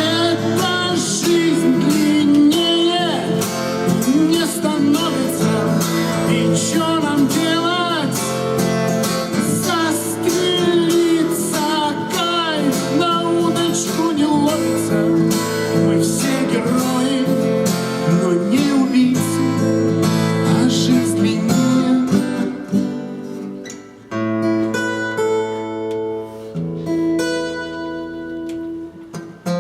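Acoustic guitar strummed under a voice singing a song. About three-quarters of the way through, the singing ends and the guitar plays on alone, quieter, ringing down toward the end.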